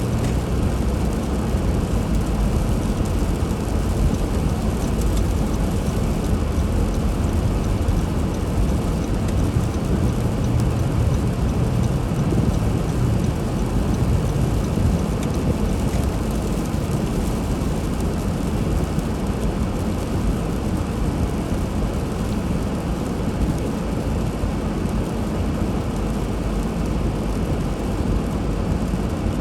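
Car driving on a snowy road: a steady low rumble of engine and tyres with an even hiss over it.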